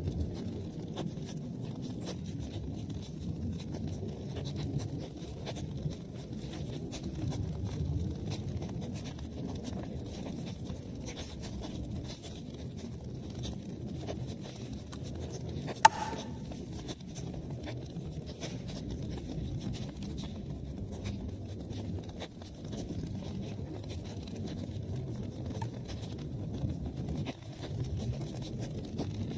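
Wood fire in a fireplace crackling over a low steady rumble, with many small snaps and one loud sharp pop about halfway through.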